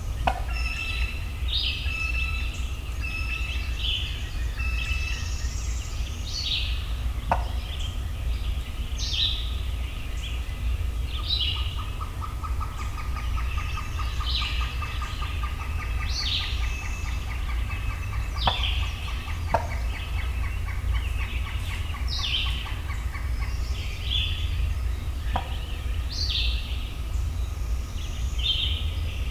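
Songbirds calling repeatedly, short high chirps and whistles, with a long rapid pulsed trill in the middle. A few sharp clicks come through, over a steady low rumble.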